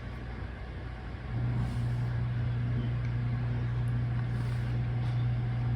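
A steady low machine hum starts about a second and a half in and holds at an even pitch.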